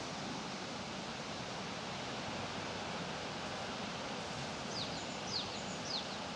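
Steady outdoor background hiss of a park, with a bird giving four or five short, high, downward-sweeping chirps near the end.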